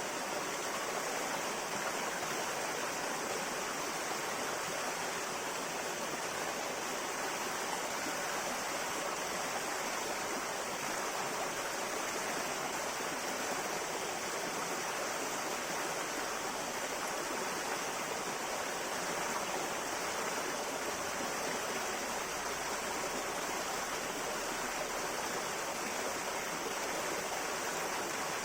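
A river flowing over rocks: a steady, unbroken rush of water with no changes.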